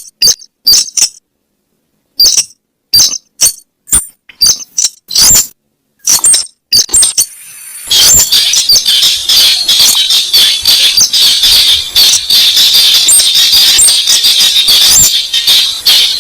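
Recorded lure call of the weris rail (slaty-breasted rail): a run of short, sharp, clicky notes in irregular groups. After a brief gap a dense, unbroken stretch of calls follows over a steady high hiss.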